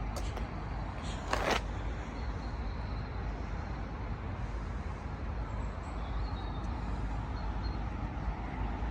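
Road traffic passing: a steady rumble of car engines and tyres, with one short, sharp noise about a second and a half in.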